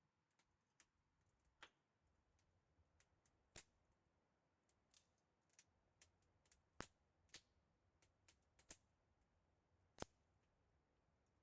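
Near silence broken by about a dozen faint, sharp clicks at irregular intervals.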